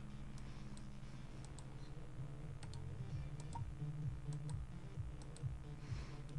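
Faint, scattered clicks of a computer mouse and keys, single and in quick pairs, over a low steady hum.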